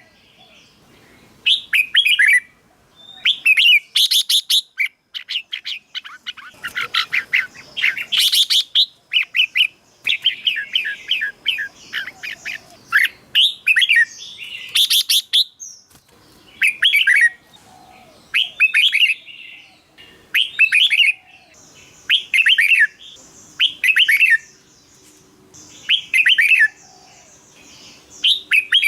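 Red-whiskered bulbul singing short, repeated whistled phrases a second or two apart, with denser runs of song in places. About two-thirds of the way through, a faint steady high hiss comes in behind the song.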